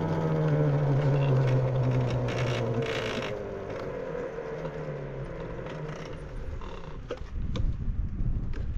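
A vehicle slowing to a stop: a low hum with a falling whine that fades over the first three seconds, then a few clicks and creaks near the end.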